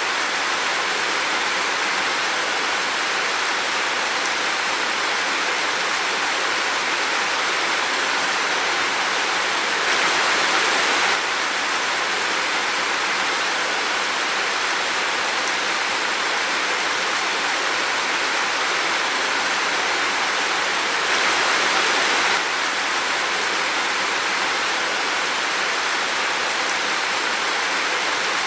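Heavy rain falling as a steady, even hiss, which briefly grows louder twice, about ten and twenty-one seconds in.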